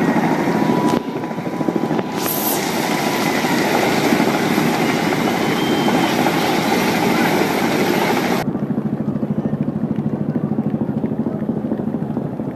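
Boeing Vertol CH-46 Sea Knight tandem-rotor helicopter running close by: a loud, steady rush of rotor and engine noise with a fast, even rotor chop. The hiss drops away suddenly about eight seconds in, leaving the duller chop.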